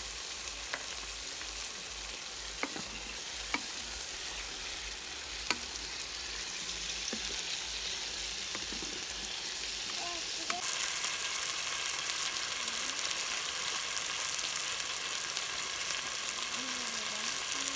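Food sizzling as it fries in a pan, with a few sharp clicks or taps in the first several seconds. The sizzle suddenly gets louder about ten seconds in.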